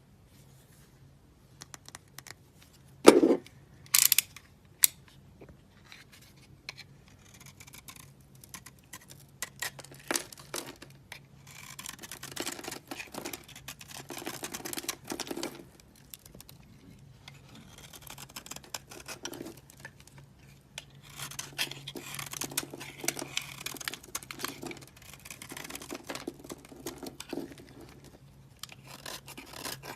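Bar soap being cut and crumbled. A few sharp snaps come about three to five seconds in, then long stretches of crisp, crunchy scraping and crumbling.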